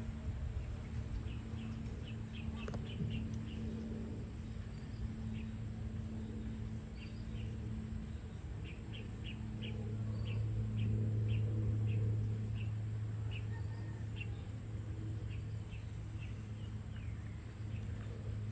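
Small birds chirping in short, quick notes, scattered irregularly, over a steady low drone that grows louder about ten seconds in and then eases off.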